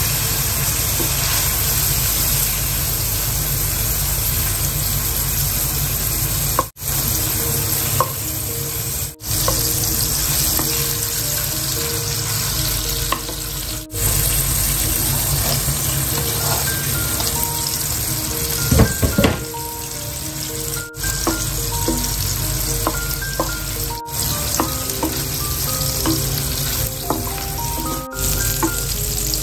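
Shrimp sizzling in hot oil in a ceramic-coated frying pan, turned with a wooden spoon, with minced garlic added partway through; a brief clatter a little past the middle. Soft melodic background music plays over it from a few seconds in.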